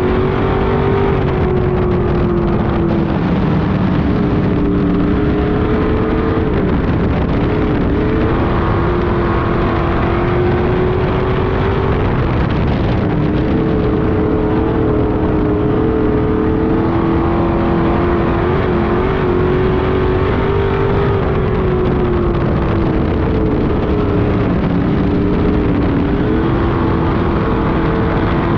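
Street stock race car engine running hard at racing speed. Its pitch rises and dips every several seconds in a repeating cycle, as it would on laps of a short oval.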